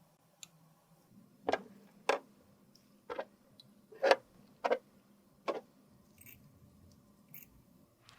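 Six sharp taps or clicks at uneven spacing over about four seconds, with a faint tick just before them.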